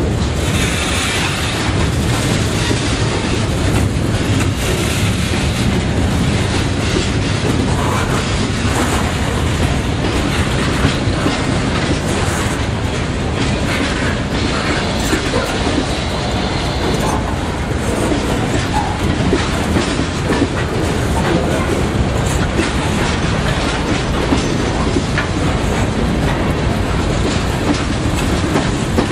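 A train rolling past, its railroad cars' wheels clacking over the rail joints in a steady, loud rumble.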